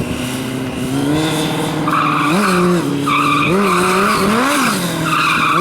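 Engine revving up and down over and over while tyres squeal in drawn-out spells from about two seconds in: a vehicle drifting.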